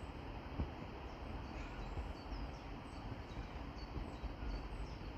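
Small birds calling: a run of short, high, thin chirps, several a second, each sliding down in pitch, over a steady low background rumble.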